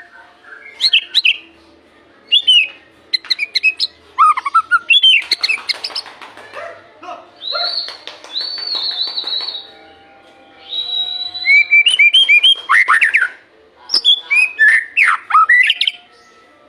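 White-rumped shama (murai batu) singing: bursts of loud, varied whistled phrases and quick sweeping notes with short pauses between, including two long held whistles about halfway through.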